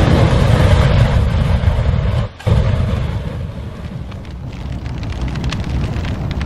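A loud, dense rushing sound effect with a heavy low rumble, cutting out for a moment about two and a half seconds in. Fine crackles run through its second half.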